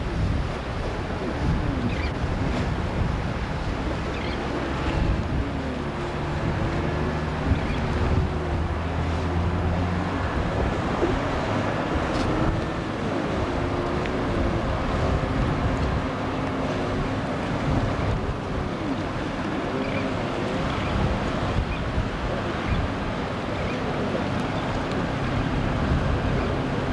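Inflatable boat's outboard motor running steadily under way, with water rushing and splashing against the hull and wind buffeting the microphone. The motor's hum is strongest for a few seconds a quarter of the way in.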